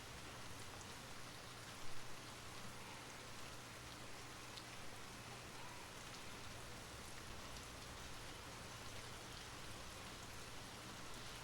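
Steady rain falling, an even hiss with scattered drop ticks. A brief louder knock about two seconds in.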